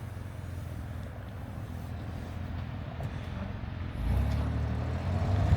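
Off-road vehicle's engine running as it is driven through deep snow, revving up and getting louder about four seconds in.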